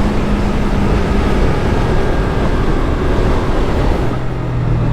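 Sport motorcycle riding on the road, its engine running under a heavy rush of wind noise on the helmet microphone. The engine note falls away about a second in, and a lower steady note comes in near the end.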